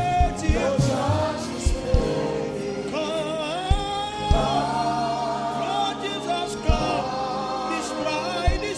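Gospel worship music: voices singing long, held notes over a band, with scattered drum hits.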